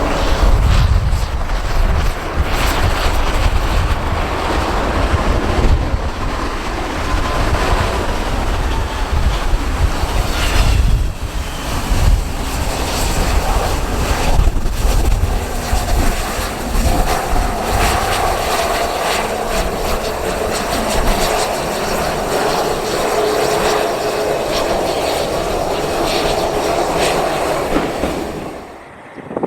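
Jet airliner's engines whining as it arrives on the runway, a steady engine tone growing stronger in the second half, under heavy wind rumble on the microphone. The sound drops off suddenly near the end.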